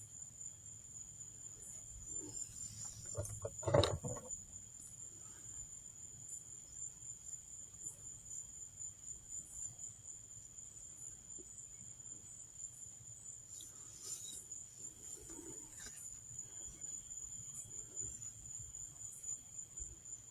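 Crickets trilling in a steady high pitch, with a single soft thump about four seconds in.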